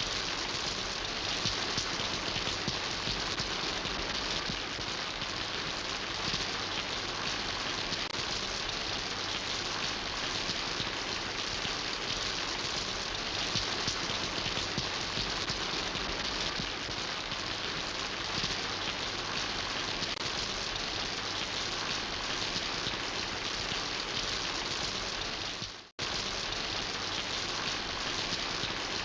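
Steady rain falling, an even hiss of many drops. Near the end it fades out to silence for a moment and comes straight back.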